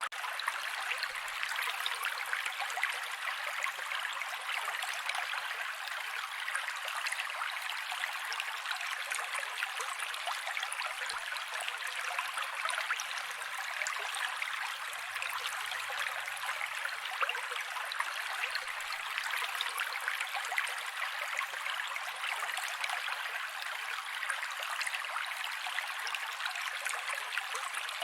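Mountain creek water flowing steadily, a continuous high-pitched rush full of fine splashing, with no deep rumble.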